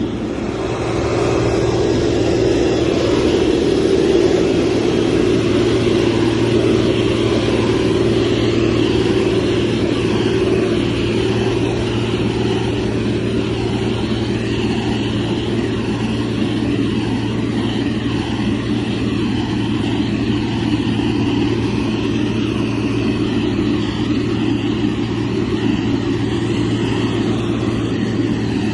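Motor grader's diesel engine running steadily, a constant low drone.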